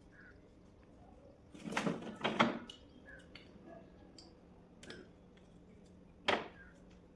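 A few sharp knocks and clatters of hard objects being handled: a cluster of strikes about two seconds in and one more loud knock near the end, with a few light clicks between.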